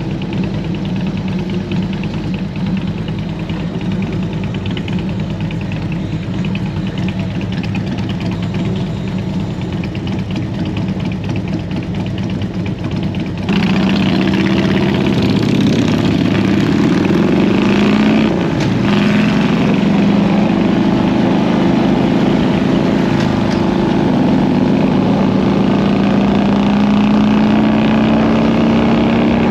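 Harley-Davidson Road King's V-twin engine running under way, with wind noise. About halfway through the sound suddenly gets louder and hissier, and a little later the engine pitch dips and climbs again.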